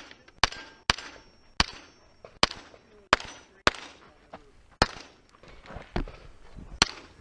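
Single shots from a 9mm SIG MPX pistol-caliber carbine fired one at a time at a steady, uneven pace: about ten shots, several of them fainter, with a pause of about a second and a half before the last.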